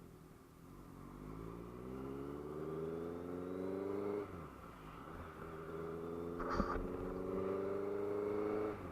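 Motorcycle engine accelerating hard through the gears: its pitch climbs steadily, drops sharply at an upshift about four seconds in, climbs again and drops at a second upshift near the end. A short sharp noise cuts in about two-thirds of the way through.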